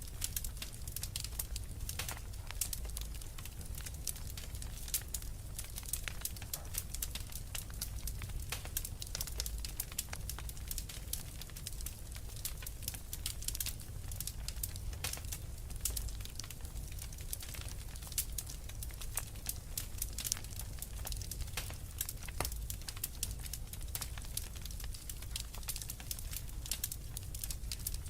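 Wood fire crackling, a dense, irregular run of small pops and snaps, over a steady low rumble.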